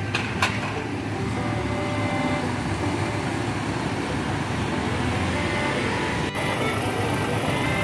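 Large diesel tour buses running with a steady engine rumble. Two sharp clicks sound just after the start.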